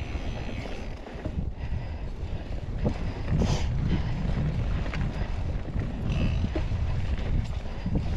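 Wind buffeting the microphone in a steady low rumble while a mountain bike rolls over a dirt and rock trail, with scattered clicks and rattles from the bike, the loudest about three and a half seconds in.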